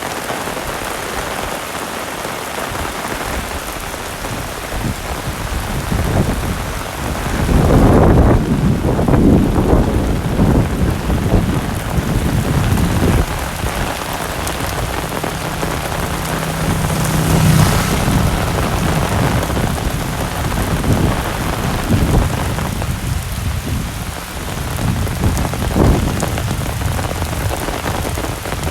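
Heavy rain falling steadily, with a long roll of low thunder starting about a fifth of the way in and fainter rumbles later.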